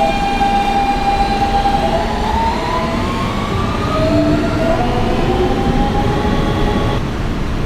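Kawasaki R160B subway car's Siemens AC traction motors and inverters whining as the train pulls away and accelerates, several tones rising in pitch together over the rumble of the car on the rails.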